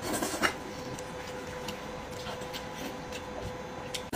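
Close-up eating sounds: wet chewing, lip smacks and small clicks as meat is torn from a braised sheep's head and eaten. A faint steady hum runs underneath.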